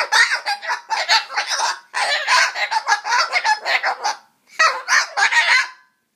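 Cockatoo grumbling: a stream of rapid chattering calls in four runs, the longest about two seconds, with a pause of about half a second before the last run.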